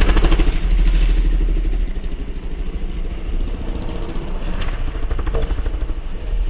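Engine running with a fast, even firing rhythm, loud at first and then dropping to a lower, steadier idle about two seconds in.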